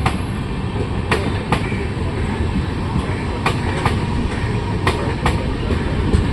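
Train running along the track: a steady low rumble with the clickety-clack of wheels crossing rail joints, sharp clicks mostly in pairs, every second or two.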